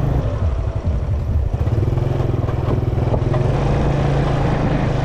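Small motorbike engine running steadily while riding, with road and wind noise. Its note breaks up for about a second near the start, then holds steady again.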